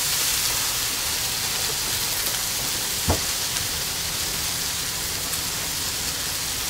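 Diced chicken thigh sizzling on a hot Blackstone flat-top griddle, a steady hiss, with one sharp click about three seconds in.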